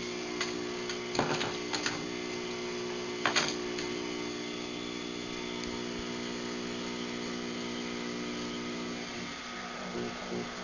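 Craftsman garage door opener's electric motor running with a steady hum, with a few sharp clicks and rattles about one and three seconds in. The hum wavers near the end as the run comes to its close.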